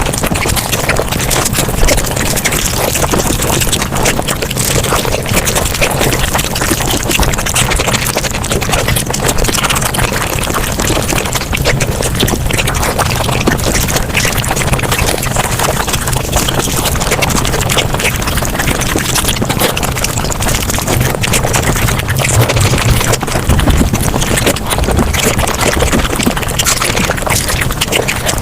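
Mukbang eating sounds sped up five times: a dense, unbroken rush of rapid chewing, slurping and wet clicking, with the squeaky, quacking quality that the speed-up gives.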